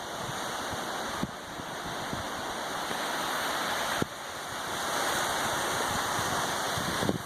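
Steady rushing of wind and surf, slowly growing louder, with a small click and sudden dip in level twice.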